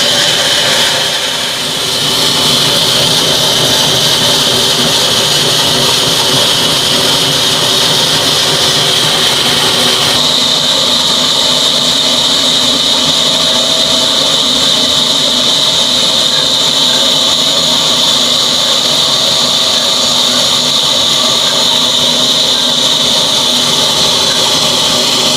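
Old 22 hp diesel engine running steadily, with a high whine over the engine noise that grows stronger about ten seconds in.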